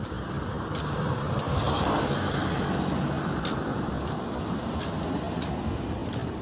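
Road traffic noise, with a passing vehicle growing louder about two seconds in and then fading.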